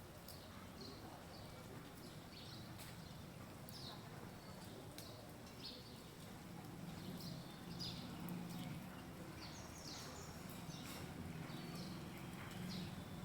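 Parrot calling: short, high, downward-sweeping chirps, about one or two a second, over a faint low rumble.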